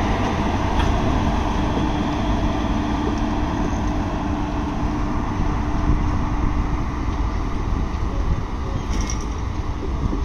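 A passenger train departing past at close range: the WAP-4 electric locomotive draws away while its coaches roll by with a continuous heavy rumble of wheels on rail. A steady hum runs under it and stops about two-thirds of the way through.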